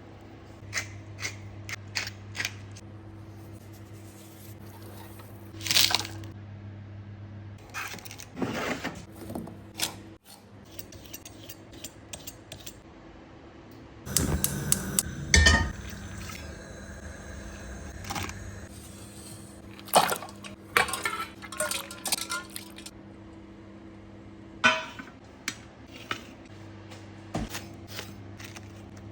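Kitchen food preparation: scattered clinks and knocks of utensils against dishes and pans, busiest about halfway through, over a steady low hum.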